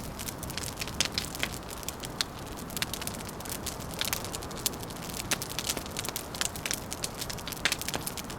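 Wood fire crackling: irregular sharp pops and snaps, several a second, over a steady low rushing background.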